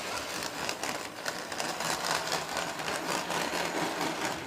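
Model train running on the track: a small electric motor whirring steadily with light clicking from the wheels on the rails. The sound cuts off suddenly at the end.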